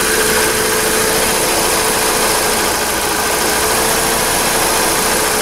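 Mercedes CLK 230's 2.3-litre four-cylinder engine idling steadily, with a thin steady whine over the running.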